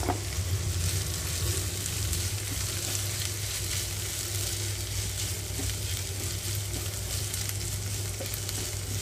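Ivy gourd slices sizzling as they fry in oil in a nonstick pan, stirred and scraped with a wooden spatula. A sharp knock comes right at the start.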